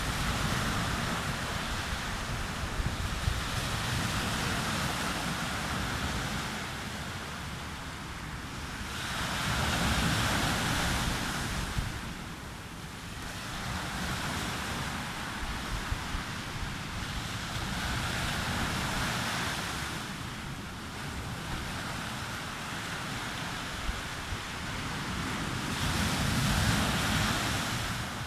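Sea waves breaking on a beach, the surf swelling and fading about every eight to ten seconds, with wind buffeting the microphone.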